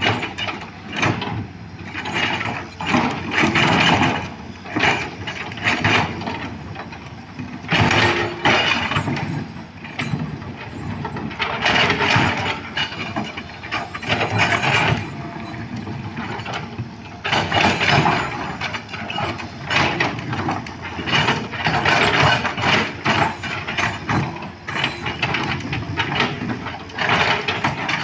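Excavator at work on road widening: irregular metallic clanking and grinding that swells and fades in uneven surges.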